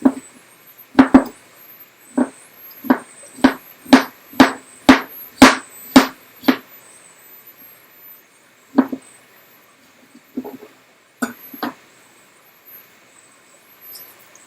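Knife chopping on a cutting board: a run of sharp knocks, about two a second, then a few scattered knocks later on.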